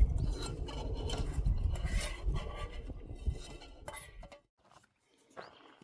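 Cutlery clinking and scraping against dishes, irregular clatter over a low rumble that cuts off suddenly about four seconds in.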